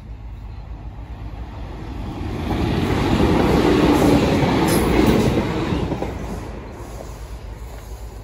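Diesel multiple-unit passenger train passing over the level crossing: rumble and rush that build about two seconds in, are loudest in the middle, and fade away near the end.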